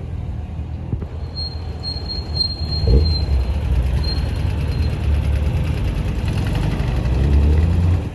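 Classic car engine running with a low rumble, revving briefly about three seconds in and building again near the end before dropping off. A thin, high-pitched whine sounds over it for the first few seconds.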